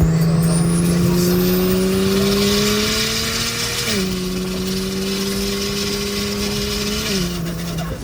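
Single-turbo BMW N54 straight-six under acceleration, its pitch climbing steadily. It drops sharply at an upshift about four seconds in, climbs again, and drops at a second upshift near the end.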